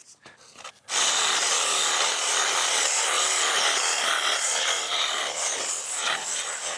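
Battery-powered cutting tool starts about a second in and runs steadily, cutting through woody overgrowth.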